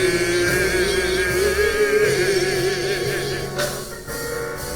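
Live gospel song: a voice holds one long wavering note over keyboard and bass accompaniment, easing off about three and a half seconds in as the band carries on.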